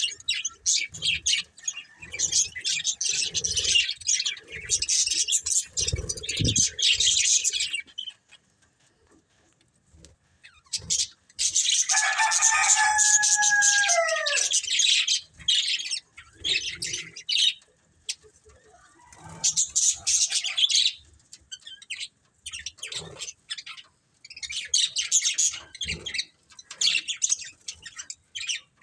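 Budgerigars chirping and warbling in busy bursts of chatter, broken by pauses of a few seconds. About halfway through, a louder falling call stands out over the chatter.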